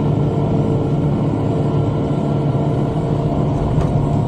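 Tractor engine running steadily under load while driving a rotary cutter (bush hog) through brush.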